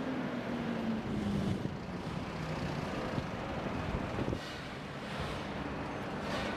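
Road traffic: a passing vehicle's engine note falls in pitch over the first second or so, then a steady rumble of traffic goes on.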